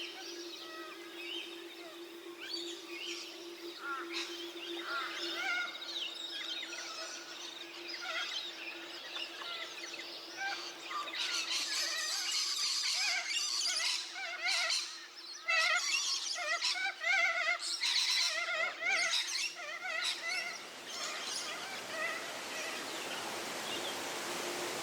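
A chorus of wild birds calling and chirping, several at once, growing busier and louder about halfway through with quick runs of repeated notes. A steady low hum runs underneath until near the end.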